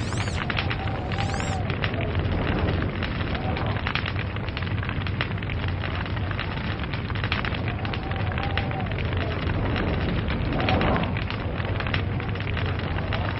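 Log fire burning: dense crackles and pops of the wood over a steady low rumble of the flames.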